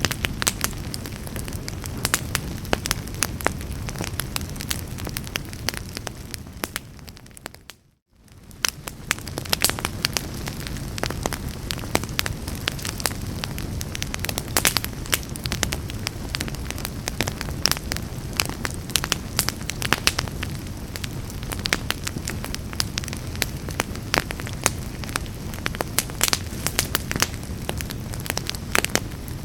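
Wood fire in a fireplace crackling, with many irregular sharp pops over a steady low rumble. About eight seconds in it fades briefly to silence and then fades back in.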